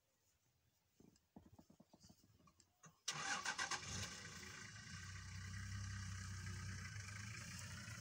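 A vehicle engine starts about three seconds in, catching after a brief choppy burst, then settles into a steady idle.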